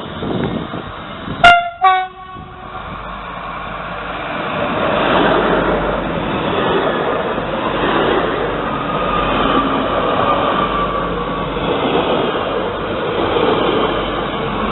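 Passing train sounding a short two-tone horn, a higher note then a lower one, about a second and a half in; the rolling noise of the train then builds and stays loud as it goes by.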